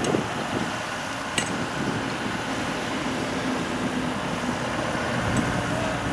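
Steady running of heavy construction machinery, with one sharp metallic click about a second in. About five seconds in, a deeper engine rumble comes up and gets louder.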